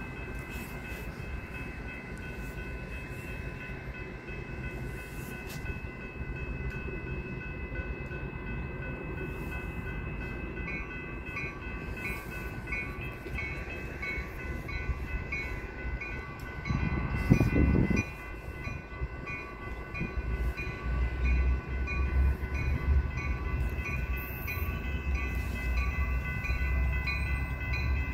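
A distant train approaching, its low rumble growing over the last third. Steady high ringing tones run underneath and take on a regular pulse about 11 seconds in, and a short loud low gust comes about 17 seconds in.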